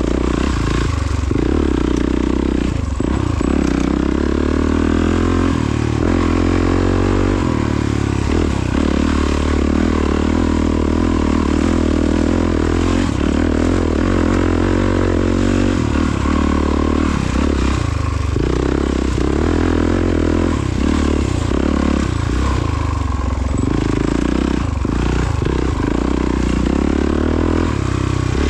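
Honda CRF450RWE dirt bike's single-cylinder four-stroke engine running continuously while being ridden off-road, its note shifting up and down with the throttle.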